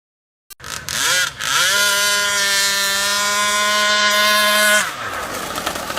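Small two-stroke engine of an RC Thai long-tail racing boat revving up, held at a steady high pitch for about three seconds, then dropping back to a rough, rattling idle.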